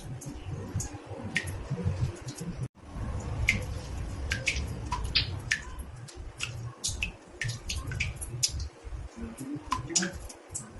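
Water drops falling into a bathtub: irregular plinks, two or three a second, some with a short glide in pitch, over a low rumble.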